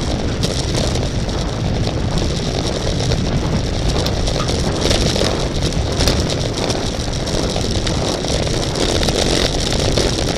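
Steady wind rush buffeting the microphone of a camera moving with a bicycle race, a constant deep rumble with a hiss above it and no clear tone.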